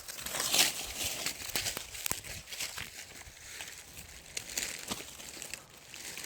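Dry leaf litter and undergrowth rustling and crackling, with irregular sharp snaps.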